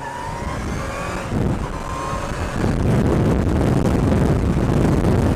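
Motorcycle engine accelerating, its pitch rising again and again as it goes up through the gears, then a loud, steady rush of engine and wind noise.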